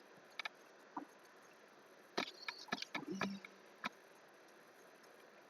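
Scattered clicks and taps of computer keys and a mouse, a few isolated ones and then a short flurry in the middle.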